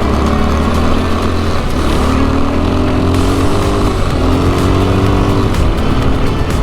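A motorcycle engine running on the move, its note rising and falling a little partway through.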